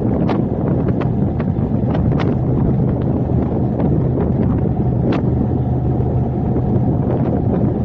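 Car on the move: steady low road and engine rumble with wind buffeting the microphone. Scattered short clicks and taps sound over it.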